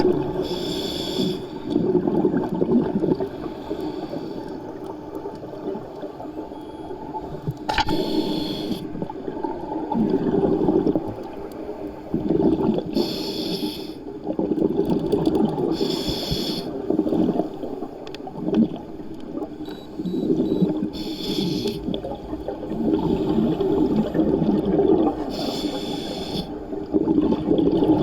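A diver breathing underwater. Short hissing inhales come at irregular intervals a few seconds apart, between long, low, bubbling exhales.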